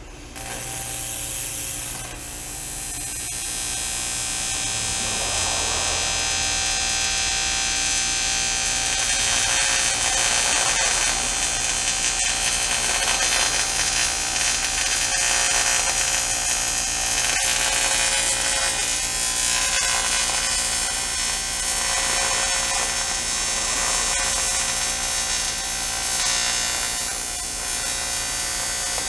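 AC TIG welding arc buzzing steadily on an aluminum rim as 4043 aluminum filler rod is fed into a crack. The arc starts suddenly right at the beginning.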